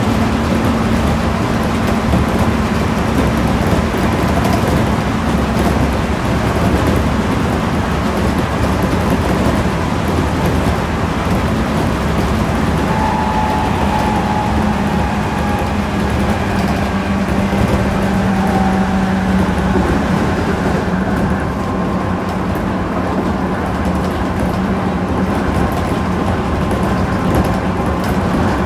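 Steady hum inside a standing JR Central 211 series 5000 electric commuter car, from the train's running onboard equipment, with a low drone and faint higher whining tones. A high hiss in it drops away about three quarters of the way through.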